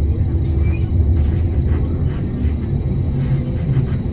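Tram running, heard from inside the car: a steady low rumble from the wheels and drive.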